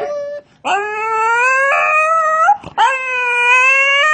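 A dog howling twice, two long drawn-out calls of about two seconds each with a short break between them, the pitch sliding up at the start and again at the end of each.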